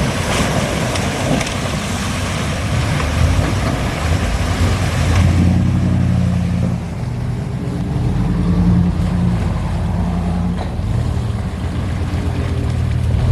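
Off-road vehicle's engine running steadily under a rushing noise that drops away about five seconds in, leaving the engine's drone clearer.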